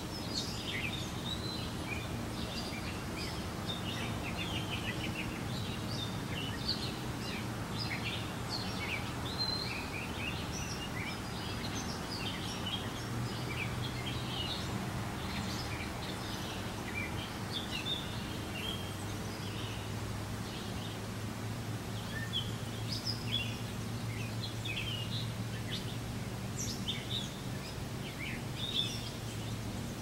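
Songbirds chirping outdoors: many short, quick chirps and twitters throughout, over a steady low hum.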